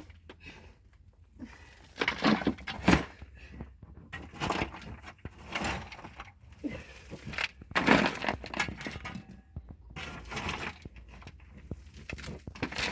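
Irregular knocks, cracks and scrapes of hard material being handled and broken, with sharp hits about two, three and eight seconds in.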